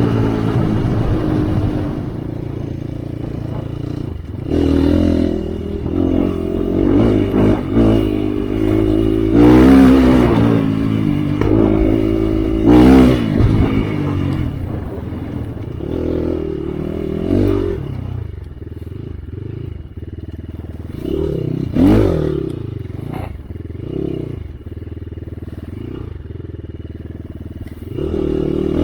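Enduro dirt bike engine revving up and down as it is ridden, pitch rising and falling repeatedly as the throttle opens and closes, with some clatter from the bike over rough ground.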